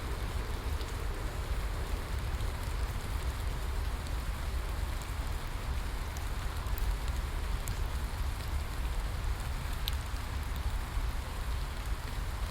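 Steady rain falling: a dense, even hiss with a deep low rumble beneath it and a few single drops ticking here and there.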